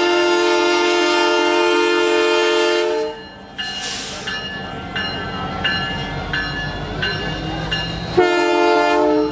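Diesel locomotive air horn sounding a long chord blast that stops about three seconds in, then a second, shorter blast near the end. Between the blasts the locomotive's bell rings about once every 0.7 s over the low rumble of the train.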